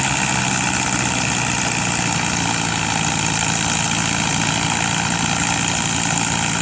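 Tractor diesel engine running steadily at an even speed, with no revving.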